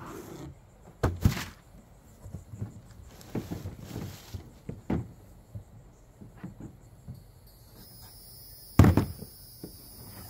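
Irregular knocks and thunks from the large plastic deck box parts and packaging being handled, the loudest about 9 s in. Crickets start chirping steadily about 7.5 s in.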